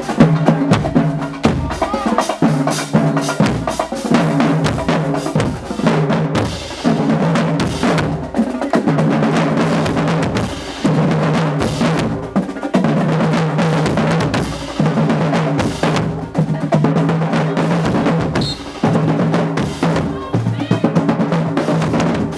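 A marching band playing: brass holding long low notes over a drumline of bass drums and snares, with brief breaks between phrases.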